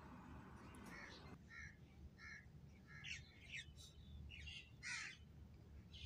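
Several faint, short bird calls, spread over a few seconds, heard over quiet room noise. A steady hiss drops away about a second and a half in.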